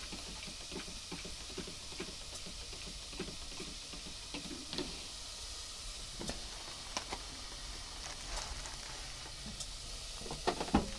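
Chopped leek and garlic sizzling steadily in oil in a pot, with scattered light clinks and knocks of spoons being handled.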